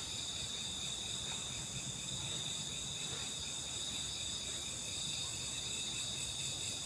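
Steady, high-pitched chorus of crickets and other insects trilling without a break.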